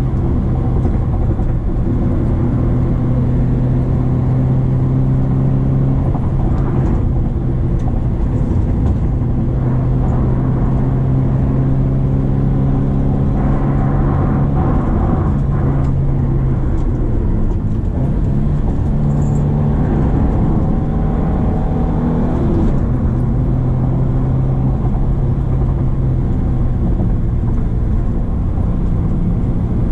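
Subaru Impreza XV 2.0's boxer four-cylinder engine pulling steadily uphill, heard from inside the car over tyre and road noise. About halfway through the engine note drops, then rises a little higher for a few seconds before settling back.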